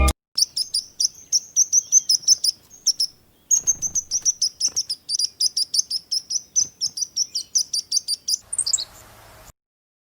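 A small bird calling in a fast run of short high chirps, about five a second, with a brief pause near the three-second mark and a falling note near the end before the recording cuts off.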